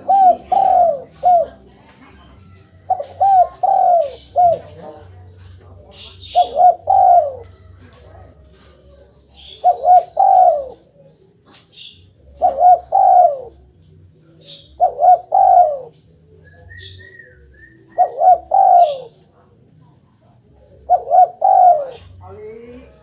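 Spotted dove cooing in repeated short phrases of two to four coos each, each note sliding down in pitch, about every two to three seconds. A faint steady high whine runs underneath.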